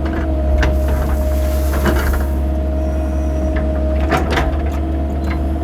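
Excavator engine running steadily with a constant hydraulic whine, and several clunks and knocks from the machine working: about half a second in, around two seconds, and a cluster about four seconds in.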